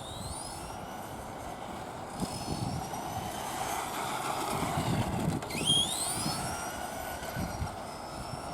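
Electric motor and gearbox of a Tamiya RC truck whining, the pitch rising and falling as it speeds up and slows down, with the sharpest rise a little after halfway.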